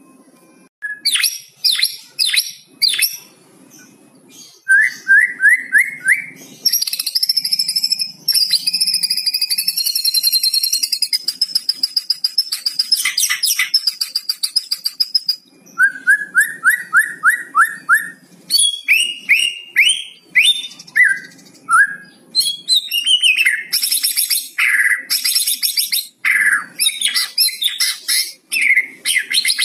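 White-rumped shama singing a varied song with crackling, rattling 'kretekan' notes. It mixes quick runs of descending chirps, a long high whistle, and fast clicking chatter.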